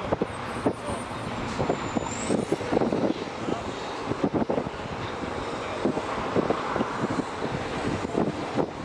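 Amtrak diesel locomotive approaching slowly with its engine running, with many irregular short thumps over the steady noise.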